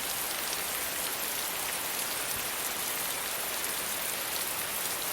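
Steady gentle rain falling on a surface, an even hiss with many small drop patters.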